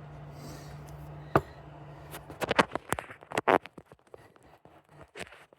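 Hands handling bandage materials: a single sharp click, then a quick run of crackling, scratching sounds. A low steady hum underneath stops about three seconds in.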